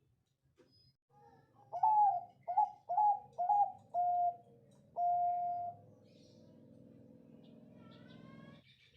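Bangkok zebra dove (perkutut) cooing: a quick run of about five short notes, then one longer held coo about five seconds in. A low steady hum follows, and a brief higher rising call comes near the end.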